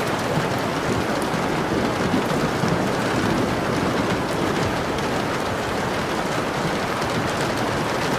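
Steady rain falling, an even hiss of rain on a surface with no pauses or changes.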